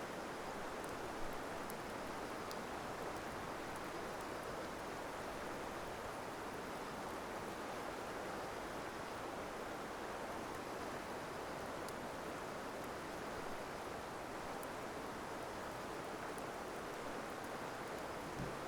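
Wood campfire burning, with faint, scattered crackles over a steady rushing noise.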